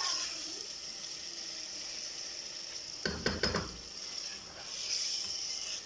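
Chicken and tomato-spice masala sizzling in an aluminium pot on low heat while a spoon stirs it, during the bhuna frying of the spices. There is a short burst of spoon knocks and scrapes against the pot about three seconds in.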